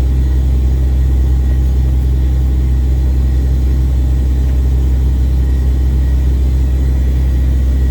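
Ship's engine running steadily, a loud, even, low rumble with no change in speed.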